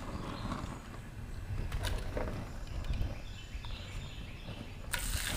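A low steady rumble with a few light knocks, then, about five seconds in, a sudden sizzle as halibut goes into hot olive oil in a cast iron pan, and the sizzle continues.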